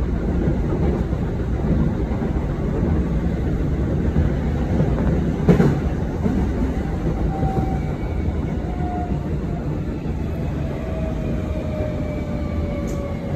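Commuter train running on rails, heard from inside the car: a steady rumble with one sharp knock about five seconds in. In the second half a thin whine slides slowly down in pitch, the train's electric drive winding down as it brakes for a station.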